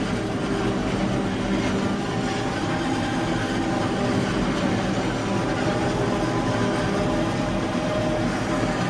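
Claas Jaguar 860 forage harvester running steadily while chopping maize on the outside run: a loud, even machine drone with engine hum underneath.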